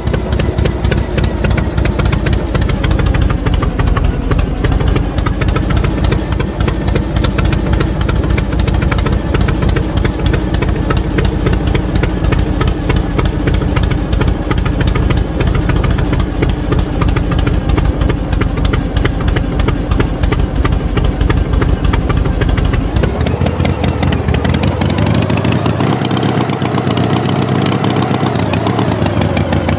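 Tractor engine running steadily, then speeding up about three-quarters of the way through, its pitch rising and wavering.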